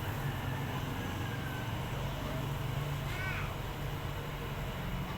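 Steady low engine hum, with one short bird call about three seconds in.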